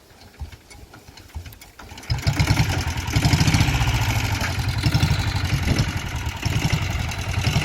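Royal Enfield Bullet's single-cylinder engine starting about two seconds in, then idling with a fast, even beat.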